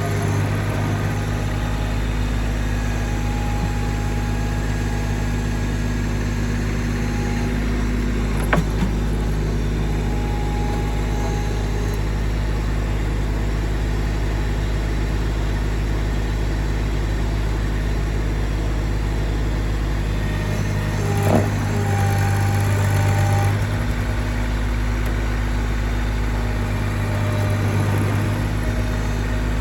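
A vehicle engine running steadily, swelling briefly about two-thirds of the way through and again near the end, with a sharp click about a third in and another about two-thirds in.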